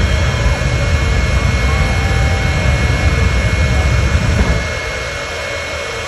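Semi truck's diesel engine and turbo running under way, a loud jet-like roar with a heavy low rumble that eases off about three-quarters of the way through, over a steady high whine.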